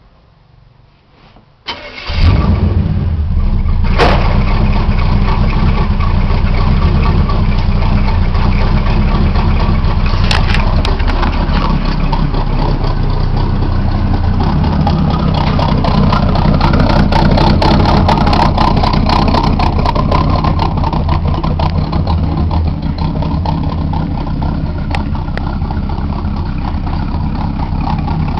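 Rebuilt 305 small-block V8 of a 1973 Chevrolet El Camino, breathing through chambered 'turbo tubes' exhaust with 2½-inch pipes, starts about two seconds in and settles into a loud, steady idle. The idle note shifts lower partway through.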